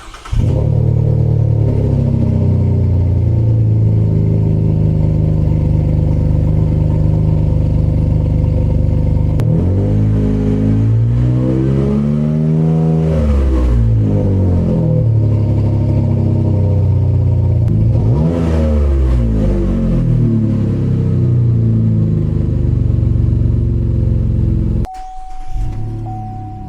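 Chevrolet Colorado ZR2's 3.6-litre V6 idling through its exhaust, then revved up and back down a few times. It cuts off suddenly near the end and quieter music follows.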